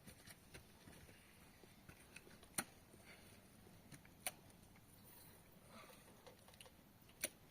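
Near silence with a faint steady background, broken by three short sharp clicks or knocks: about two and a half seconds in, about four seconds in, and near the end.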